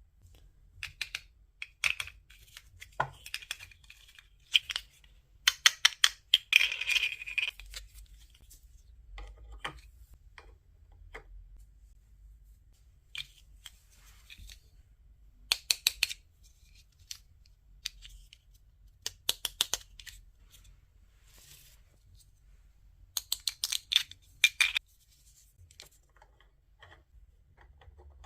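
Small plastic toy pieces being handled and unpacked: bursts of rapid clicking and rustling, with short quiet gaps between them.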